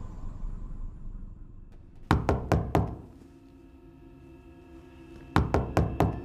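Knuckles knocking on a wooden door: two rounds of four quick raps, about three seconds apart.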